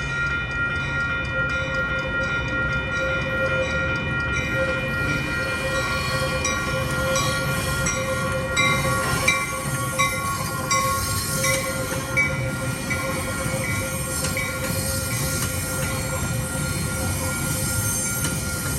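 A Metra commuter train running past, its rumble carrying steady high whining tones. From about six seconds in, a series of short, evenly spaced high clicks is heard over it for several seconds.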